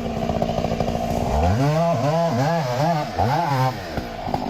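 Chainsaw running, its engine pitch dipping and rising about five times in quick succession in the middle, then running steadily again.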